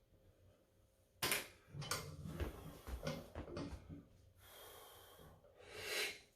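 A man's forceful breathing while straining through a heavy one-hand lift on a thick rolling handle: a sharp breath about a second in, effortful breaths and strained sounds, then a long hiss of air and a hard exhale near the end.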